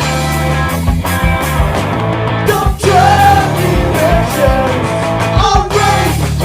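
Punk rock band demo recording: distorted electric guitars, bass and drums playing, with a voice singing over them from about the middle on.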